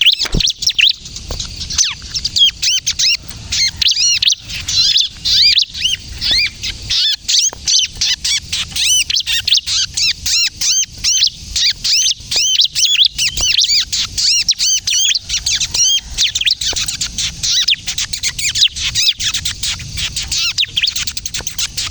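Bar-winged prinia (ciblek kristal) singing vigorously without pause: a fast, unbroken run of high, curling chirps. This is the excited song that bird keepers play as a lure and to prompt other prinias to sing.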